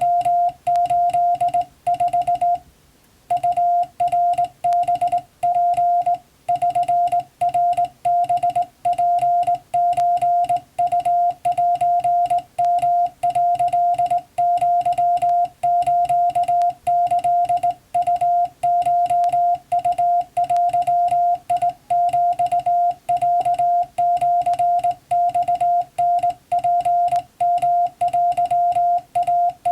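Morse code sent by hand on a straight telegraph key: a steady sidetone of about 700 Hz keyed on and off in dots and dashes, with faint clicking from the key's contacts. There is one brief pause near the start.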